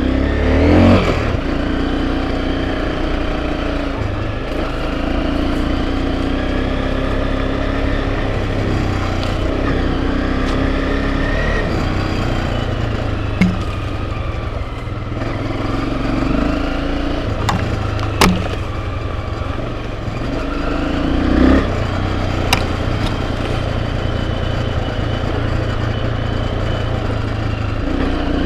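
Enduro motorcycle engine running on a trail, its pitch rising and falling again and again as the throttle is opened and eased off. A few sharp knocks in the second half.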